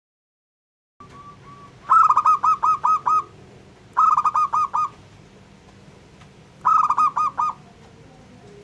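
Zebra dove (local perkutut) cooing: after about a second of silence, three bursts of rapid staccato notes, about seven a second and each burst around a second long, over a faint steady background hum.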